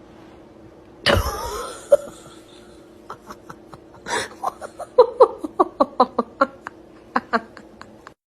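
A sudden loud burst of noise about a second in, then a person laughing in a long run of short, quick 'ha' notes.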